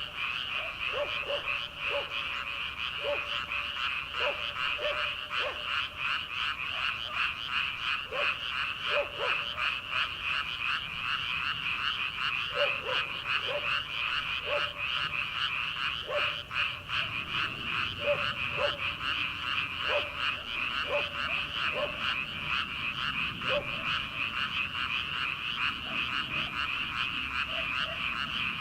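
A chorus of many frogs calling at once, a dense, fast-pulsing trill that never lets up. Over it, lower single croaks from other frogs come irregularly, about once a second.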